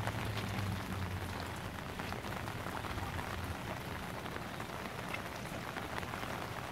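Steady rain falling on a garden fish pond: an even patter with scattered single drops.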